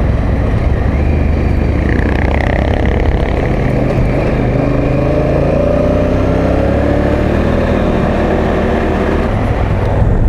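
Honda Africa Twin motorcycle engine running steadily under way on a rough dirt road. Its note eases slightly lower in the second half.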